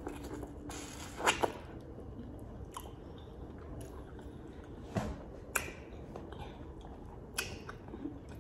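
A person chewing a bite of sauce-coated corn on the cob, with a few sharp wet mouth clicks and smacks at irregular moments.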